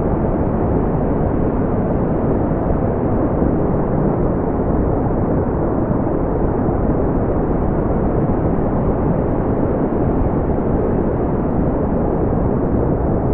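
Generated brown noise: a steady, deep hiss with no pitch, rhythm or change, its weight in the low end and thinning out toward the top.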